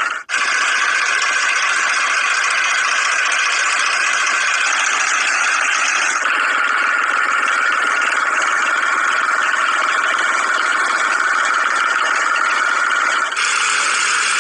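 Engine running steadily with a rattle, broken by short cuts between clips.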